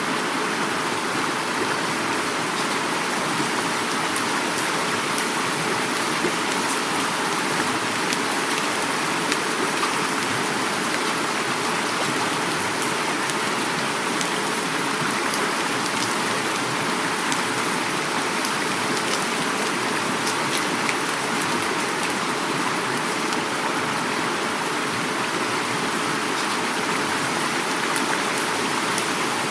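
Heavy rain falling steadily, mixed with flowing river water, as an even, unbroken wash of noise with faint scattered drop ticks.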